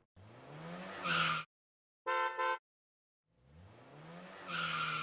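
Car sound effects: an engine revving up, two short horn beeps, then the engine revving up again.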